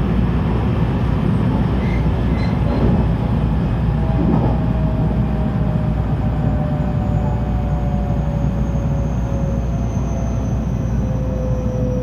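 JR 223 series 2000-subseries electric train running: a steady loud rumble of wheels on rail, with the traction motor whine slowly falling in pitch from about four seconds in as the train slows.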